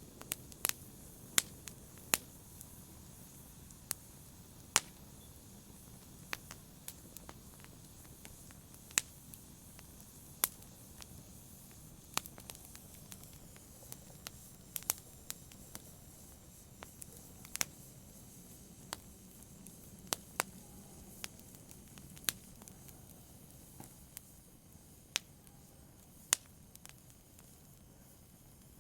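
Fireplace fire crackling: sharp, irregular pops and snaps, one every second or two, over a faint, steady low hiss.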